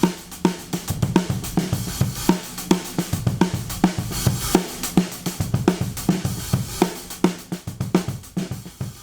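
Recorded drum kit groove playing steadily, with kick, snare, hi-hat and cymbals, run through a DBX 119 compressor/expander. The unit is switched in, blended in parallel with the dry drums.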